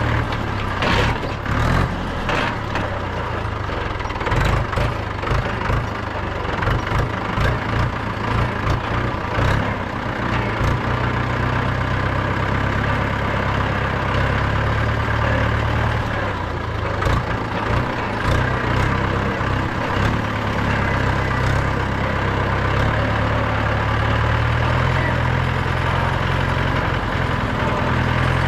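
Mahindra 475 DI tractor's four-cylinder 2730 cc diesel engine running with a deep, steady drone. It is uneven, with short rattles and knocks, for the first ten seconds or so, then settles into a steadier run.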